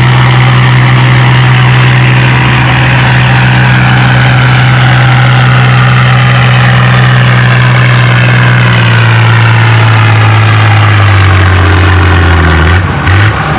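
Tractor engine pulling a weight-transfer sled at full load, lugging down as the weight builds: its note holds steady, then sinks steadily over the second half and drops further near the end, where it briefly falters.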